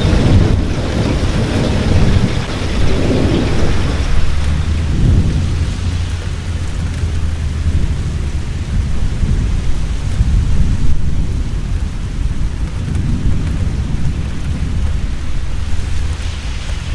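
Heavy rain falling steadily with rolling thunder, a deep rumble that swells in the first few seconds and again later on.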